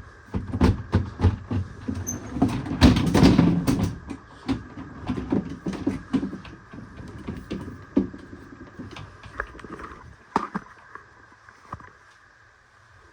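Plastic freezer baskets and drawer parts being handled and lifted out: a run of knocks, clicks and rattles, busiest about three seconds in, thinning to a few scattered clicks near the end.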